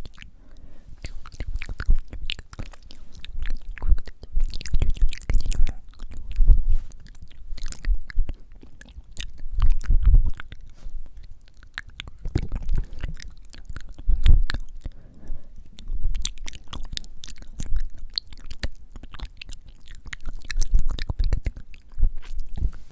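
Very close-miked wet mouth sounds: moist lip and tongue clicks and smacks, with breath blown onto the microphone in low, rumbling gusts every couple of seconds.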